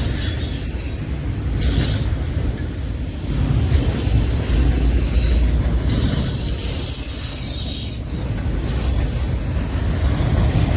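Freight train cars rolling past close by: a steady rumble of wheels on the rails, with high-pitched wheel squeal coming and going.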